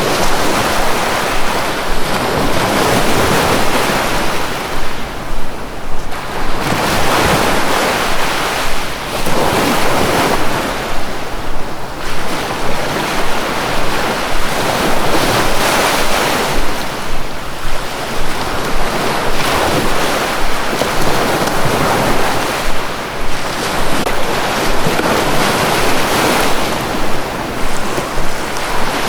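Sea waves breaking and washing on a shore, surging and ebbing every few seconds in a steady rolling rush.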